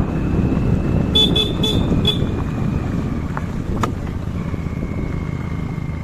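Motorcycle running on a road with a steady low rumble. About a second in, a horn gives four quick short toots.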